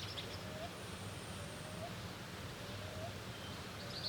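Outdoor animal calls, most likely birds: a short, low upslurred note repeated evenly about every second and a quarter, and a brief burst of high chirps near the end, over a steady low background hum.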